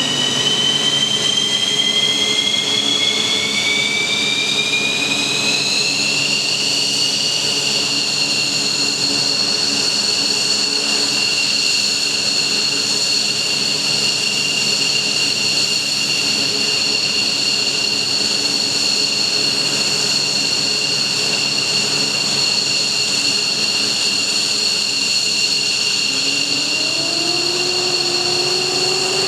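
F-15J fighter's F100 turbofan engines starting up, with a loud high whine that rises in pitch over the first six seconds as the engine spools, then holds steady at idle. A lower tone begins rising near the end as further spool-up starts.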